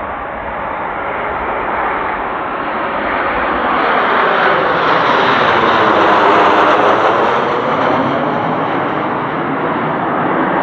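Blue Impulse Kawasaki T-4 jet trainers flying past overhead, their turbofan roar building to a peak about six to seven seconds in and then fading.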